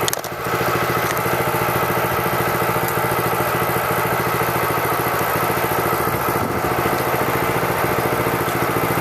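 Massimoto MB200 mini bike's 196cc single-cylinder four-stroke engine idling steadily while it warms up from a cold start. It is fairly quiet for a mini bike.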